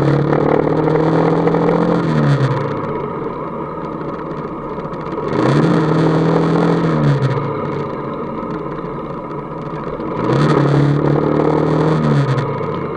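Motorcycle engine pulling under throttle three times, each time holding a steady pitch for about two seconds before the revs drop away as the throttle is eased off, running quieter in between.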